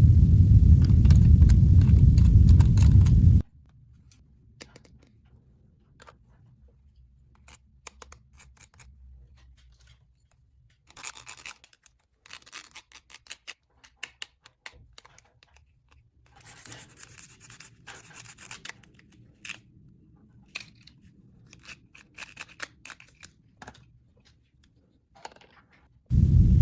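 Loud low rumbling noise for the first few seconds that cuts off suddenly, then small plastic toy parts being handled: scattered light clicks, scratches and short rustles. The rumble starts again just before the end.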